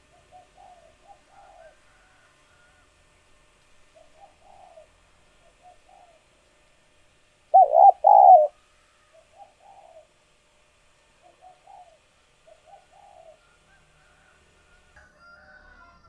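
Spotted doves cooing, with soft repeated coo phrases throughout and one loud, close two-note coo a little before the middle.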